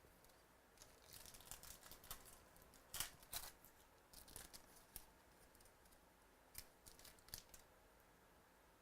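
Faint rustling and crinkling of a trading-card pack being torn open and cards handled, with a few sharper crackles about three seconds in and scattered ticks until near the end.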